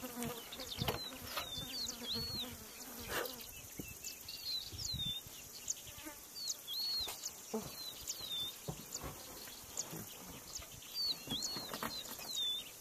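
Small bird calling: short arching whistled notes, in pairs and threes, repeated every second or two over a faint hiss and occasional soft knocks.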